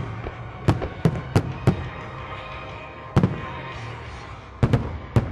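Fireworks display: a series of sharp, loud firework bangs, four in quick succession in the first two seconds, a double bang a little after three seconds, and another quick cluster near the end.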